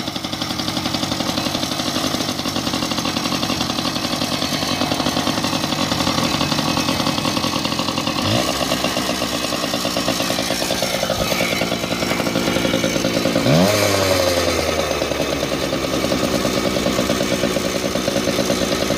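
Yamaha PW80's small two-stroke single-cylinder engine running steadily on choke while warming up, not yet running clean without it. It is revved briefly about 8 seconds in and again, higher and louder, about 13 seconds in, then falls back to its steady run.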